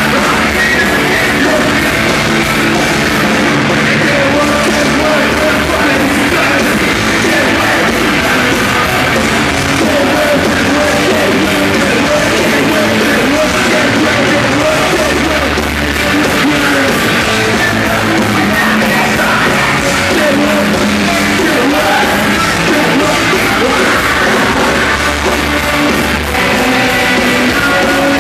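Live hard rock band playing loud, with distorted guitars, drums and shouted vocals.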